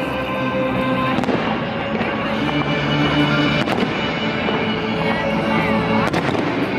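Fireworks going off at a display, a few sharp bangs over a dense crackle, with music playing along.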